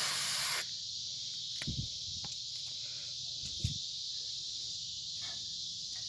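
A short burst of aerosol spray hissing for about half a second at the start, as battery terminal protector is sprayed onto the cleaned terminals. After it, a steady high insect chorus with a couple of light knocks.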